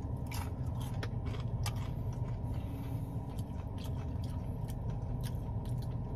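Close-miked chewing and biting of fried chicken, with irregular wet mouth clicks and smacks over a steady low hum.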